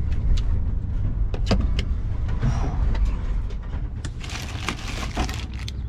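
Steady low road rumble of a vehicle, heard from inside the cab, with a few sharp clicks early on. About four seconds in, a stretch of rustling is added on top.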